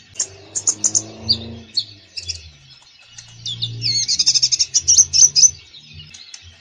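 Olive-backed sunbird (konin) singing hard: a rapid stream of high, sharp chirps, quick trills and short sweeping notes, with a dense fast trill about two-thirds of the way through. Lower tones sound underneath the song.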